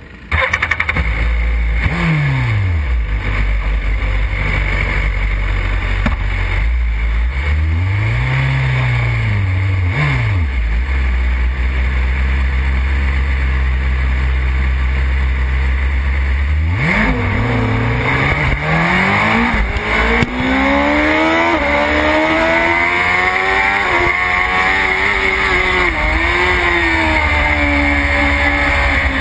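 BMW S1000RR's inline-four engine, heard from a camera mounted on the bike. It is held at revs and blipped on the start grid, then launches about two-thirds of the way in and pulls hard up through the gears, the pitch rising and dropping back at each upshift.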